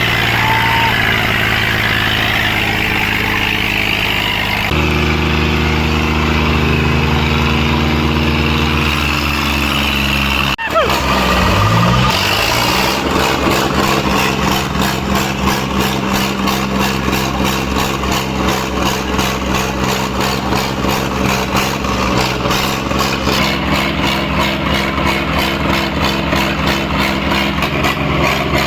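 Tractor diesel engine running loudly and steadily. Its note changes abruptly about five and ten seconds in. After the second change the pitch slides briefly and then settles into a steady pulsing beat.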